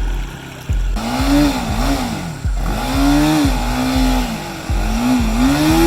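Motorcycle engine revving up and down over and over, starting about a second in, its pitch rising and falling with each burst of throttle.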